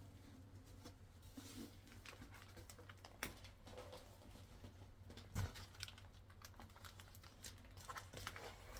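Faint rustling and scattered light clicks and taps from a rolled diamond-painting canvas being handled and unrolled.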